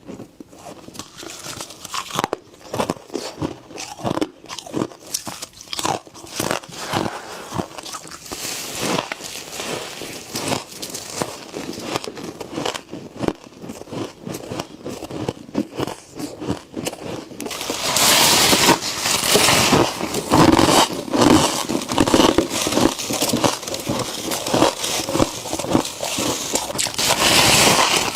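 Close-up crunching and chewing of freezer frost: dense, irregular crackles of ice crystals being bitten, louder and thicker from about two-thirds of the way in.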